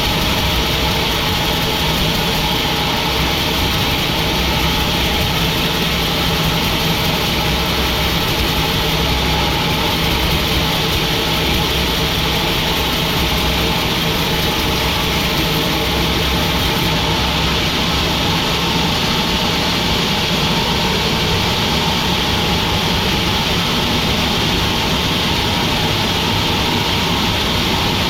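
Sawmill machinery running steadily: a loud, continuous mechanical drone that neither starts, stops nor changes.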